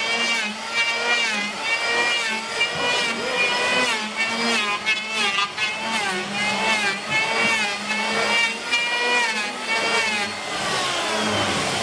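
A power tool's motor running under changing load while working wood, its whine dipping and recovering roughly once a second, then winding down near the end.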